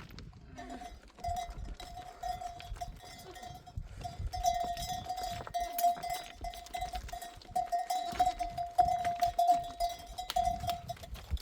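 Bells clinking on a flock of sheep and goats on the move, with a steady ringing tone running through, broken by short gaps.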